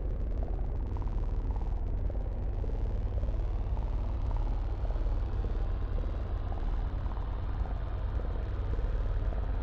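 Steady low rumble with faint, slowly wavering tones above it, like an engine.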